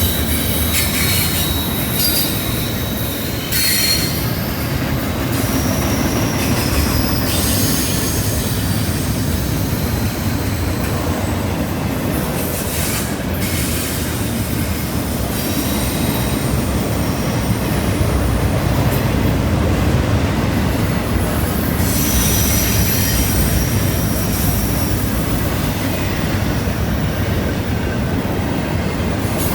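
Freight train cars rolling through a curve, steel wheels squealing against the rails in high-pitched squeals that come and go over a steady rumble.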